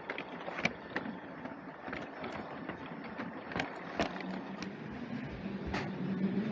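LEGO train running on plastic track: a steady electric motor hum with scattered clicks and clacks from the wheels and track, the hum growing louder near the end.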